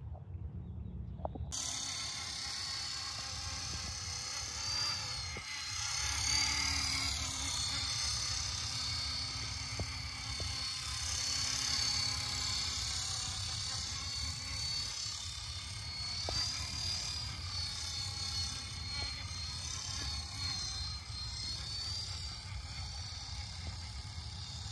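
Small electric radio-controlled helicopter (Hitec Solo Pro 228) in flight: a high motor whine that wavers up and down in pitch, over a rotor hum whose pitch slowly bends. It comes in suddenly about a second and a half in and then runs on.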